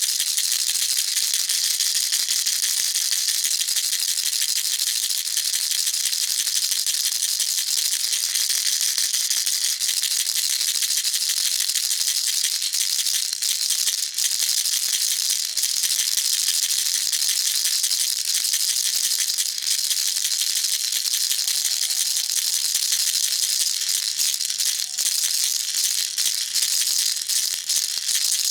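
A baby rattle shaken continuously, making a dense, steady, high-pitched rattle. Short breaks in the shaking come more often near the end.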